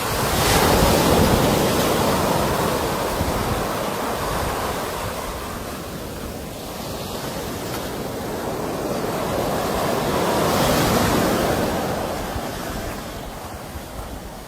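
Sea waves breaking on the shore, two surges about ten seconds apart, each swelling and then washing away. Wind buffets the microphone.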